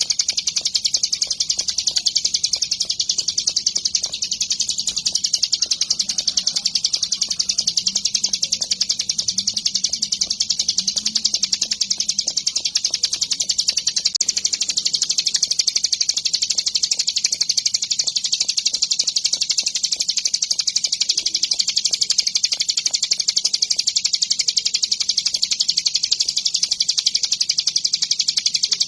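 Ciblek gunung, a prinia songbird, singing a long, rapid, high-pitched chattering trill without a break.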